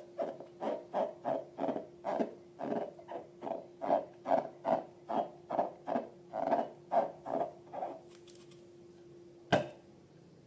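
Slime being squished by hand, making soft wet squelches at about three a second for roughly eight seconds, then stopping. A single sharp click follows near the end.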